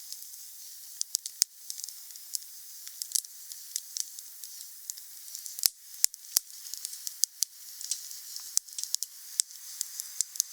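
Wood fire crackling: a steady hiss with frequent small snaps and several louder sharp pops.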